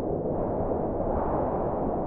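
Heavy blizzard wind blowing, a steady low rushing noise that swells slightly about a second in.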